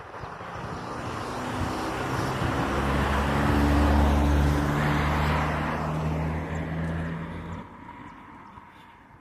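A motor vehicle passing by: its engine and tyre noise build up, peak about four seconds in, then fade away, with the engine's low hum dropping out shortly before the end.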